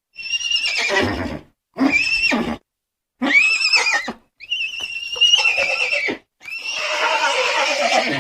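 Horses neighing: a string of about five separate whinnies, each a high, quavering call, with short silences between them. The last call, near the end, is rougher and breathier.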